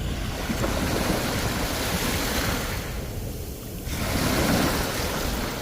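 Sea surf breaking and washing up the shore: one long surge of wave noise, a lull about three seconds in, then the next wave swells up again. Wind buffets the microphone with a low rumble underneath.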